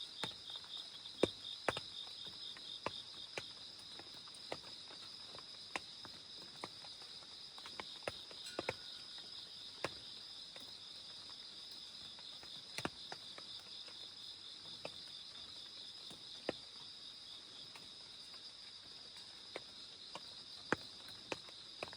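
Crickets trilling steadily in a high, continuous chorus, with scattered raindrops tapping sharply and irregularly every second or so.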